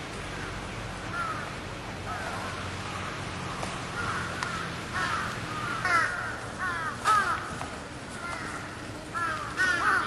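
A black bird calling in short downward-sliding notes, in quick runs of two or three, faint at first and louder from about five seconds in.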